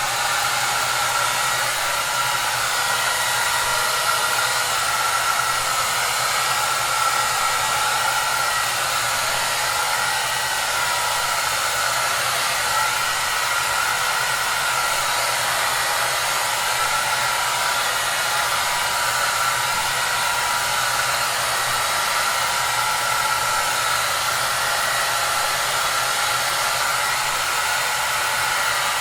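Hair dryer running steadily: an even rushing noise, strongest in the upper range, with a faint low hum underneath.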